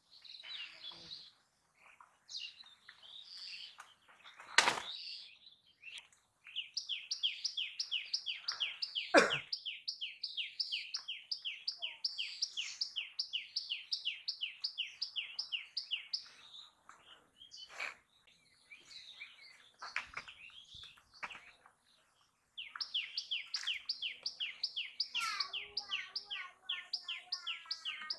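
Bird chirping in a rapid run of short, falling notes, about three a second, that goes on for about ten seconds, pauses, and starts again near the end, when a second, lower bird call joins in. Two sharp thumps stand out, about five and nine seconds in.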